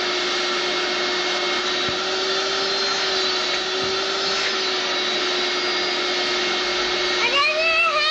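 Vacuum cleaner running steadily, a constant hum over its rushing noise. About seven seconds in, a high-pitched voice rises over it.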